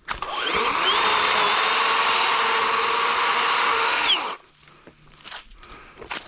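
Worx 40-volt WG384.9 battery chainsaw with an 18-inch Oregon bar spinning up, running steadily for about four seconds while cutting a small downed log, then winding down and stopping.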